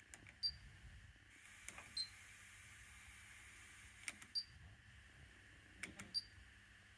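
Buttons pressed on a Pioneer KEH-M7400RDS car radio-cassette head unit: four times a sharp click, each followed by a short high confirmation beep.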